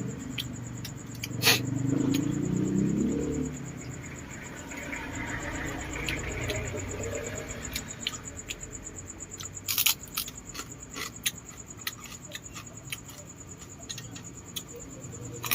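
Close-up eating sounds of someone chewing balut: many small sharp clicks and smacks from the mouth, with a louder stretch of low, muffled chewing a second or two in.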